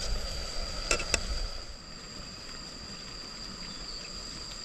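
Steady high-pitched drone of forest insects, with a few light clicks in the first second and a half.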